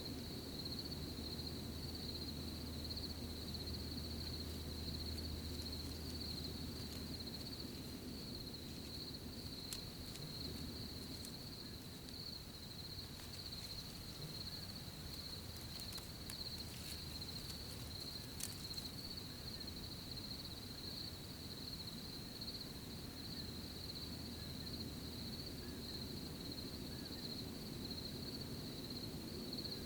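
Crickets chirping in a continuous high trill over a low outdoor rumble, with a few faint ticks about a third of the way through and again past the middle.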